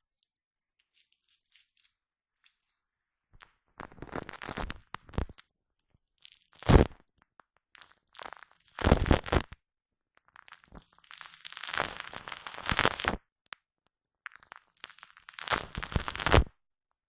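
Shaving foam squished and worked close against a microphone, giving sticky, crackling bursts, five in all, each followed by a short silence.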